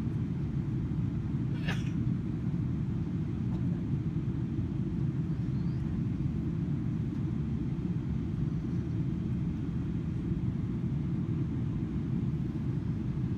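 Cabin noise inside a Boeing 777-300ER: a steady low rumble from its GE90 engines and the airflow, even in level throughout. A single brief click sounds about two seconds in.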